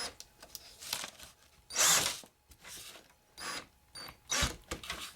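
Power drill driving a small self-tapping screw into the metal underside of O gauge tubular model train track in several short bursts, the loudest about two seconds in, with a knock a little after four seconds.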